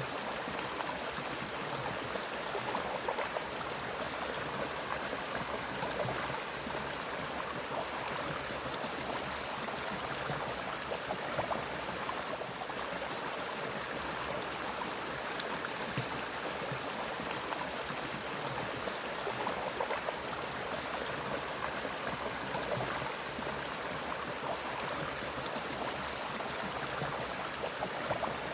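Forest mountain stream flowing: a continuous, even rush of running water, with a steady high-pitched tone above it.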